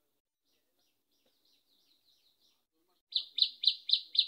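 A bird calling: faint scattered chirps, then about three seconds in, a loud sharp chirp repeated evenly about four times a second.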